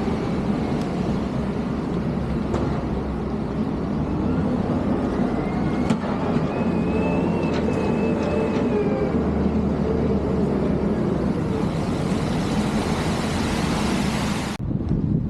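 Heavy snow-removal machinery and trucks running steadily, a dense engine rumble with a faint whine that rises and holds for a few seconds midway. The rumble breaks off abruptly near the end.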